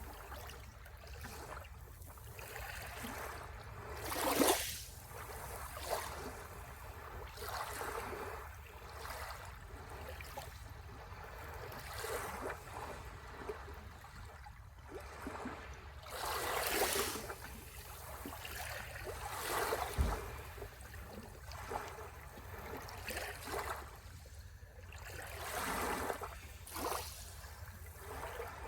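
Small sea waves washing onto the shore in a steady, soft rush of surf. Separate waves swell and fade every few seconds, the strongest washes about 4 s and 17 s in.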